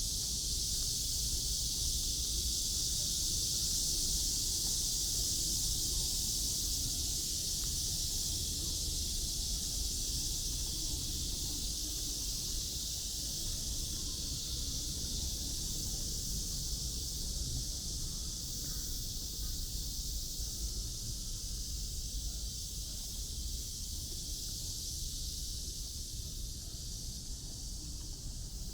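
Steady outdoor ambience: an even, high-pitched hiss over a low rumble, easing slightly near the end.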